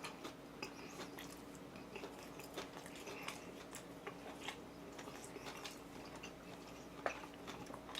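A person chewing food close to the microphone: faint, scattered wet mouth clicks and smacks.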